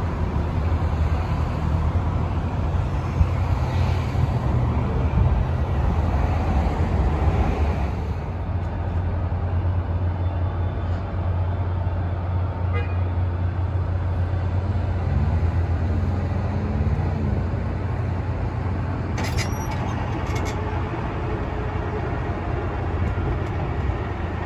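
Diesel commuter train running slowly near a grade crossing, a steady low rumble, with a few faint clicks about 19 to 20 seconds in.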